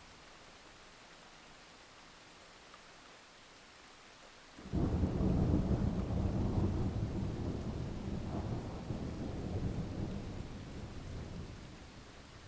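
Steady rain, then about halfway through a sudden loud clap of thunder that rumbles on and slowly dies away.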